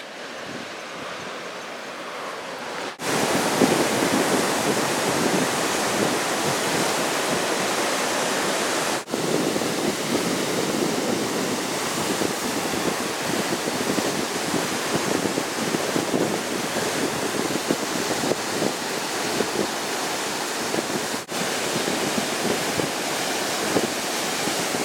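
Large storm swells breaking on a rocky shore: a continuous rush of surf. It is quieter at first, jumps louder about three seconds in, and cuts out for an instant twice more, around nine and twenty-one seconds in.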